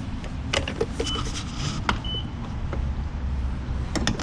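Steady low rumble with a few sharp clicks and two short high beeps about a second apart, as from a gas pump being worked.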